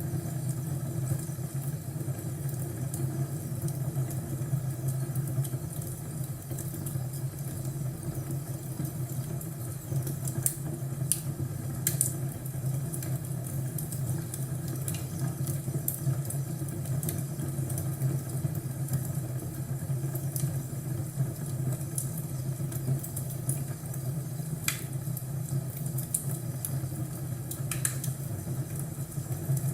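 Crackling wood fire: a steady low rumble with scattered sharp pops and crackles.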